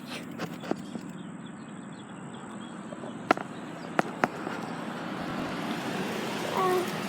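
Wind and rolling noise on a phone microphone during a bike ride, growing louder over the last few seconds, with a few sharp clicks about three to four seconds in and a short pitched sound near the end.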